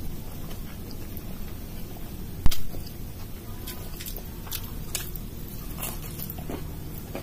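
Close-miked chewing and wet mouth clicks of someone eating dal and rice by hand, over a steady low hum. A single sharp knock about two and a half seconds in is the loudest sound.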